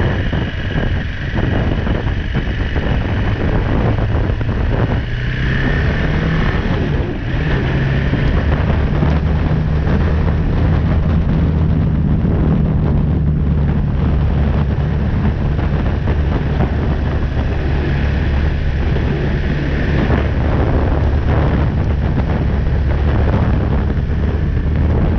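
BMW G310R's single-cylinder engine accelerating, its pitch climbing over the first few seconds with a brief dip about seven seconds in, then running steadily at cruising speed, with wind rushing over the helmet-mounted action camera's microphone.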